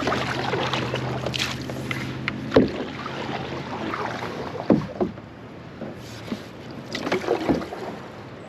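Canoe paddling: paddle strokes swishing and splashing in the water, with a few sharp knocks, the strongest about two and a half seconds in and just before the five-second mark.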